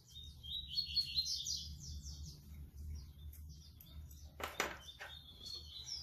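A small songbird chirping: a quick run of short, high, falling notes lasting about a second and a half, then more near the end. Two sharp clicks about four and a half seconds in, from small objects being handled at a table.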